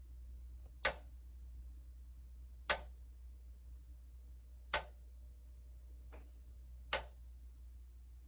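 Four sharp single clicks at an even pace of about one every two seconds, with a fainter click between the last two, over a low steady hum.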